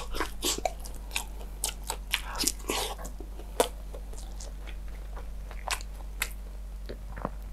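A person biting into and chewing breaded fried chicken close to a clip-on microphone. Crisp crunches come thick for the first three seconds or so, then thin out to occasional chewing clicks.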